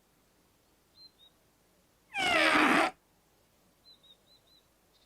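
A cartoon trumpet blown once, giving a strange, cat-like sound with several pitches sliding downward, under a second long, about two seconds in. The trumpet sounds wrong because a stone is stuck inside it. Faint, short, high chirps come before and after it.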